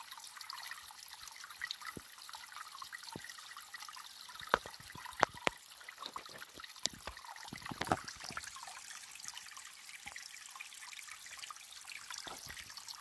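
Water trickling steadily into a small stream-fed pond. A few sharp clicks stand out between about four and eight seconds in.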